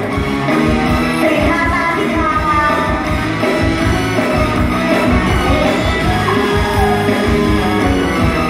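Live band music with a steady beat and a singer's voice, amplified through a PA system.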